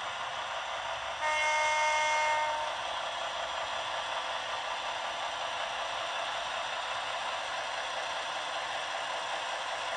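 OO-gauge model diesel locomotive's sound decoder playing through its small speaker: a horn blast of several steady notes about a second in, lasting about a second and a half, over a steady hissing engine-running sound.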